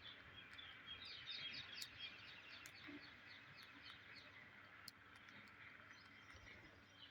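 Faint bird chirping over a steady hiss: a quick run of short, repeated chirps from about a second in for a couple of seconds, then scattered single chirps.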